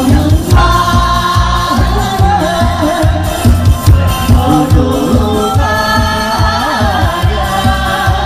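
Korean trot medley performed live: singing over backing music with a steady beat.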